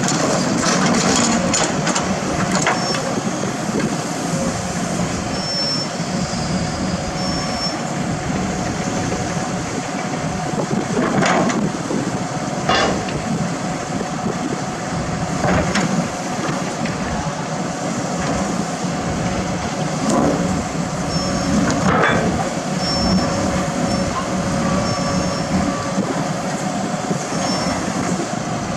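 Heavy diesel machinery running steadily, with sharp metal clanks every few seconds and brief high squeaks.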